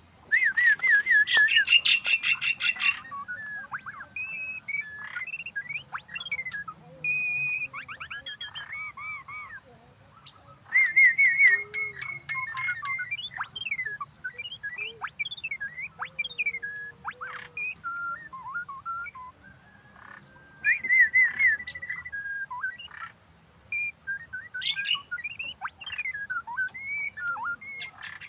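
White-rumped shama singing: a long varied run of whistled notes that slide up and down. Loud stretches of rapid rattling notes break in near the start, about eleven seconds in, and again about twenty-one seconds in.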